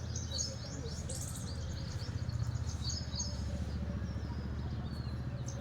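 Small birds chirping in quick runs of short high notes, heaviest in the first three seconds and again near the end, over a steady low rumble.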